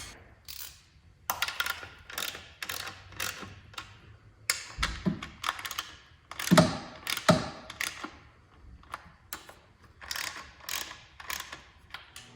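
Hand ratchet clicking in short, irregular strokes as bolts are run in, with a few duller knocks in the middle.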